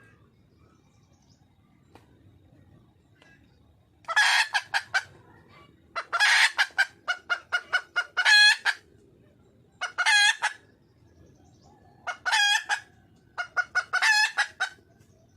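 Red junglefowl hen calling: after about four seconds of quiet, several loud phrases, each a fast run of clucks ending in a longer drawn-out note.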